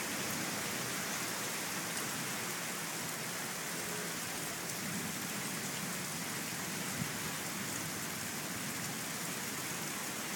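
Steady rain falling, an even continuous hiss without a break.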